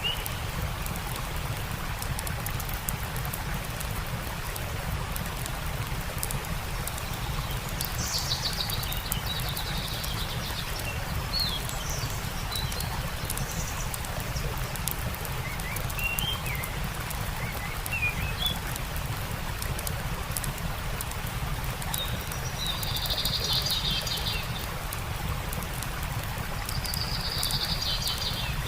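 Small birds chirping and calling in several short bouts over a steady rushing water sound from a stream.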